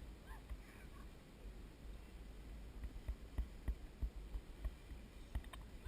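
Low wind rumble on a GoPro microphone while cycling, with several sharp knocks and rattles from about three seconds in.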